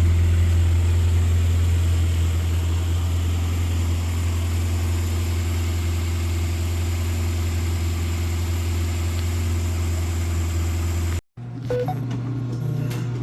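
A 1959 Morris Minor's four-cylinder engine running steadily with a low, even hum. About eleven seconds in the sound cuts out briefly and gives way to a different, slightly higher steady hum with a few faint clicks.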